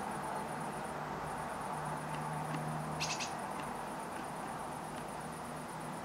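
A short, high bird call about three seconds in, over a continuous high-pitched pulsing insect trill and steady outdoor background noise.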